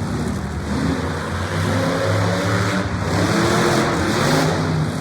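Engine revving, its pitch rising and falling several times, over a broad noisy background.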